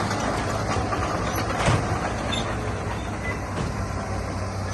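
Heavy earthmoving machinery: a diesel engine running steadily with scattered metallic clanks and rattles, and one sharper knock a little under two seconds in.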